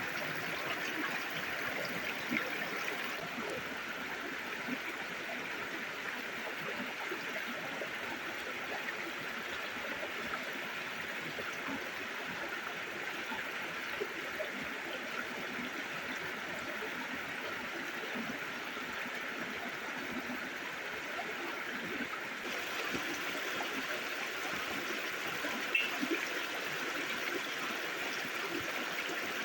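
Steady rush of a flowing river stream, with a few faint clicks.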